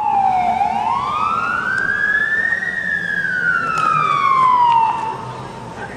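Emergency vehicle siren wailing in a slow cycle: its pitch dips, climbs over about two seconds, then falls slowly, and it drops away about five seconds in.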